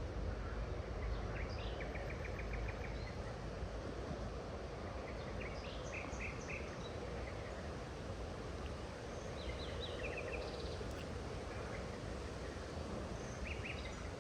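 Small birds chirping in short, high phrases, one a quick trill of about eight notes, over a steady rushing noise of flowing water.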